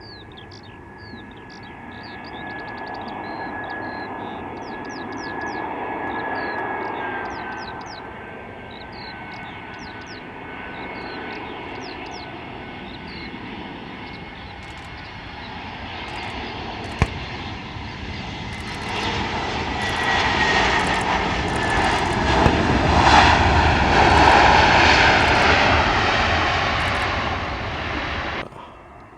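Jet airliner flying past, its engines giving a high whine that slowly drops in pitch while the overall noise builds to its loudest near the end, then cuts off suddenly.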